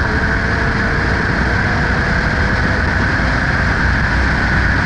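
2011 Ford Mustang V6 at speed mid-way through a full-throttle quarter-mile run: a steady, even mix of engine, tyre and wind noise.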